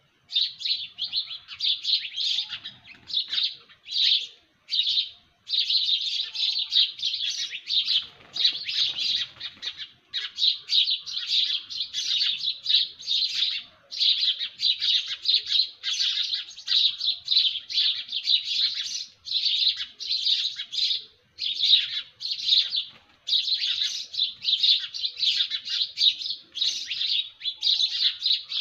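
Small birds chirping in rapid, dense runs of high notes, almost without a break apart from short pauses.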